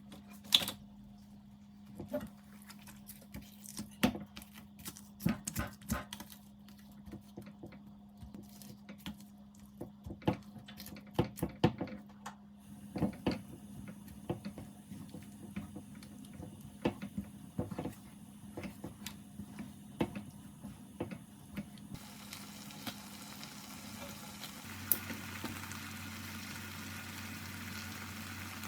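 Kitchen clatter: scattered knocks and clicks of utensils and dishes being handled during cooking, over a low steady hum. A steady hiss sets in over the last few seconds, like food starting to fry.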